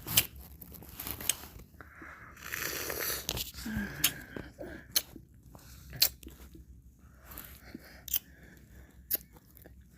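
Close-miked mouth sounds of eating ice cream: sharp wet lip smacks and clicks about once a second, with longer stretches of licking and slurping in between.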